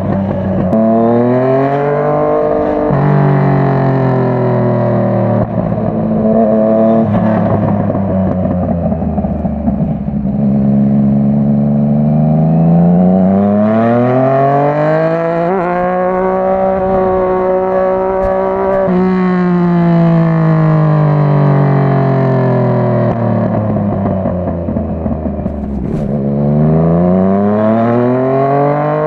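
Yamaha MT-09's 847 cc crossplane inline-three engine pulling through the revs, its pitch climbing, then dropping sharply at gear changes, with spells of steady cruising in between. The longest climb comes about halfway through, and the engine climbs again near the end.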